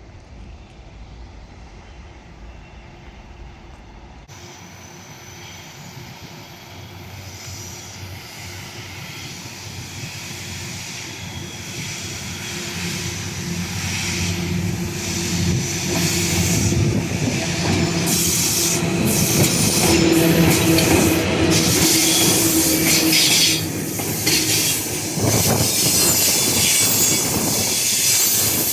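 VL10u electric locomotive hauling a freight train, approaching and growing steadily louder for about fifteen seconds, then passing close. A steady hum from the locomotive runs under hissing and squealing from the wheels, with rhythmic clacks of wheels over rail joints.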